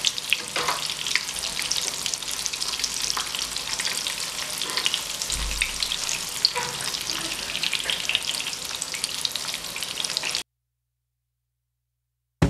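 Breaded beef cutlet frying in hot oil in a skillet, a steady sizzle with dense crackling. It cuts off abruptly about ten seconds in.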